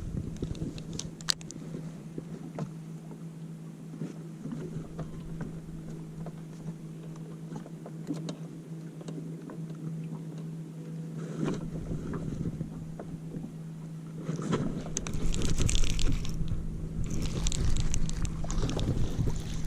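Steady low hum of a boat's motor, with scattered small clicks and knocks. About three-quarters through, a louder rushing noise with heavy rumble comes in: wind buffeting the microphone.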